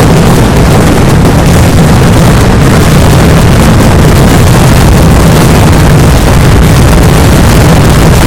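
Vedikettu fireworks barrage: firecrackers going off so densely that the bangs merge into one continuous roar, loud enough to overload the microphone.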